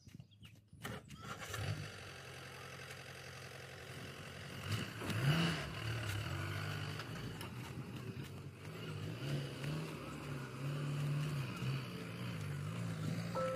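A few knocks, then from about a second and a half in a diesel engine of earth-moving machinery runs, its revs rising and falling.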